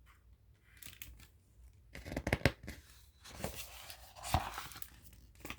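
Paper pages of a picture book being handled and turned: several rustling, sliding strokes, with a soft knock a little past the middle.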